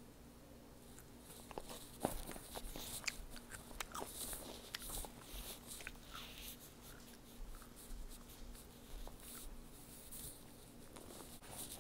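A child chewing a mouthful of crispy Rice Krispie treat: faint, irregular crisp clicks and mouth smacks, starting about a second in and strongest about two seconds in.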